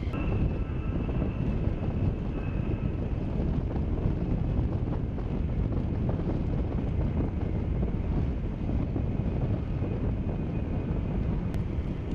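A-10 Thunderbolt II's TF34 turbofan engines running: a steady rush with a thin high whine that fades over the first few seconds.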